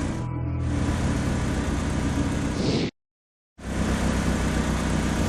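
A vehicle engine sound effect running steadily. It cuts off about three seconds in and, after about half a second of silence, a second engine sound starts.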